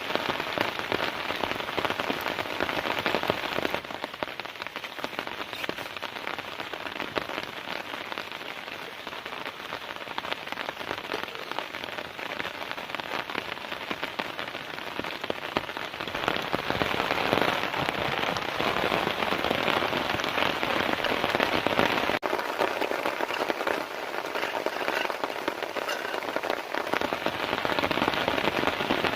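Heavy rain pattering steadily on a tent, a dense patter of countless drops that swells somewhat louder about halfway through.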